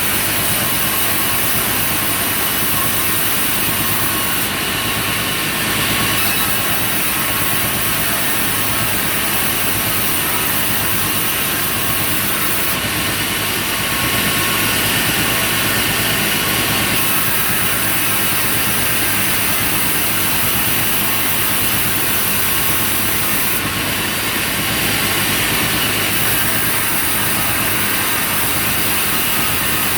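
Sawmill machinery running steadily: an engine-driven saw droning, with a strong high hiss and a few slightly louder stretches.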